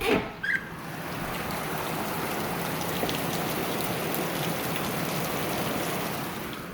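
Heavy hurricane rain pouring down: a steady rushing hiss that swells in over the first second, after a short knock at the very start.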